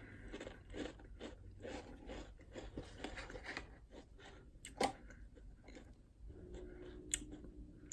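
Close-up chewing of a crunchy Pringles 7 Layer Dip potato crisp: soft, irregular crunches with a couple of sharper clicks about five and seven seconds in.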